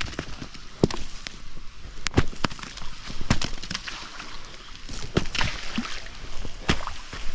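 Rain on a tarp shelter and a campfire crackling: irregular sharp taps and pops over a steady hiss that grows louder about five seconds in.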